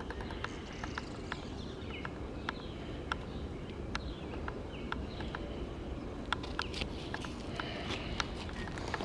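Songbirds chirping and calling, with many short sharp chip notes at irregular spacing, over a steady low background rumble.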